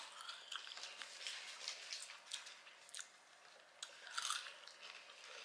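A person chewing food, faint wet mouth clicks and smacks. About four seconds in comes a louder sucking smack as fingers are licked clean.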